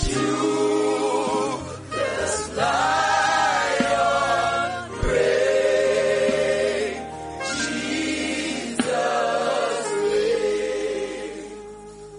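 Voices singing together in a gospel worship song, held notes in phrases with short breaks, fading away near the end.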